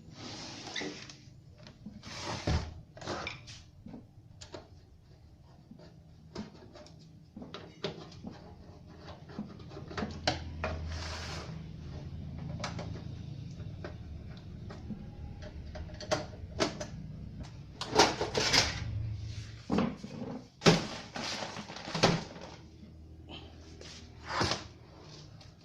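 Handling noise from work on a power amplifier: scattered clicks, knocks and rattles of tools and parts, busier and louder in the last third, over a steady low hum.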